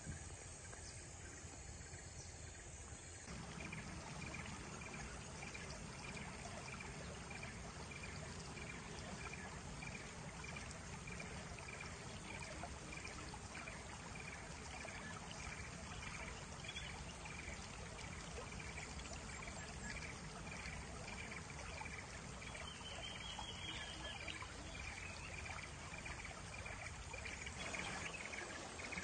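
Steady rush of flowing stream or cascade water, with insects chirping in a fast, even pulse above it. The water noise comes in abruptly about three seconds in, after a few seconds of insects alone.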